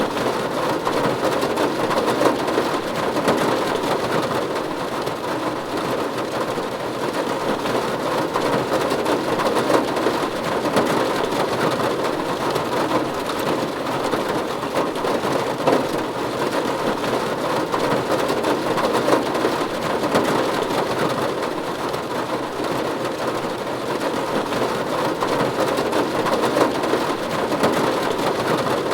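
Steady rain falling on a roof: a dense run of small drop hits blending into an even hiss, with no change in strength.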